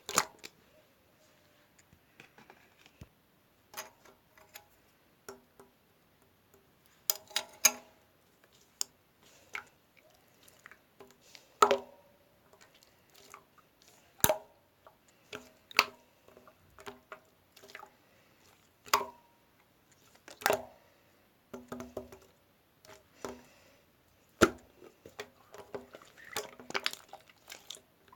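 Irregular small knocks and taps of hard objects, some ringing briefly with a short tone.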